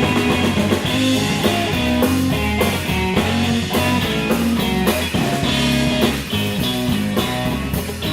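Live blues band playing an instrumental stretch with no singing: guitar, bass guitar and drum kit, with steady drum strokes under moving guitar notes.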